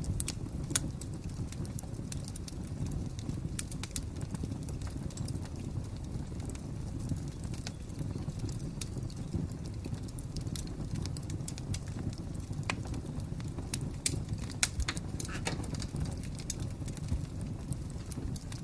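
Fire crackling: a steady low rumble with irregular sharp pops and snaps scattered throughout.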